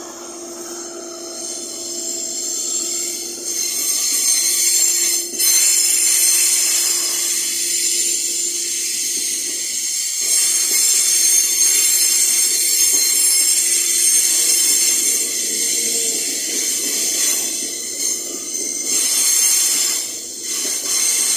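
Loaded iron-ore train running past, with a steady high-pitched whine and hiss from the rolling stock and a lower held tone underneath.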